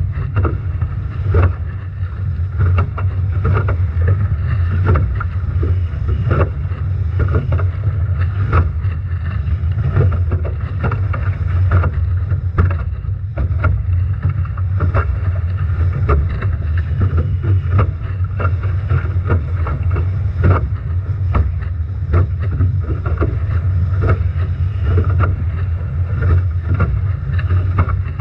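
Strong wind rumbling steadily on the onboard camera's microphone, with waves slapping and spray hitting the hulls of a Nacra 17 foiling catamaran sailing upwind in heavy seas. The hits come as many irregular sharp knocks.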